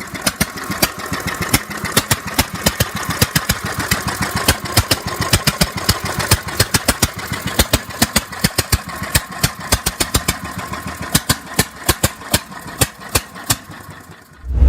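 DEUTZ industrial diesel engine fitted in a custom motorcycle, running at a slow idle with an even beat of about five hard knocks a second.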